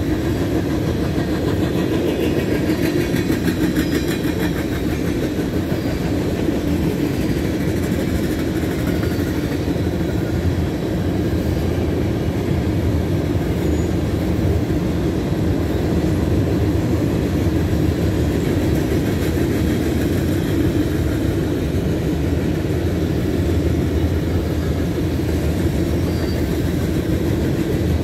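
CSX freight train's tank cars and covered hoppers rolling past, a steady rumble of steel wheels on the rails.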